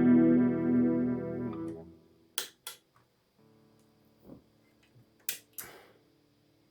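Electric guitar chord ringing through a chorus pedal, its overtones wavering and pulsing as it dies away about two seconds in. Then come a few short clicks and scrapes over a faint hum.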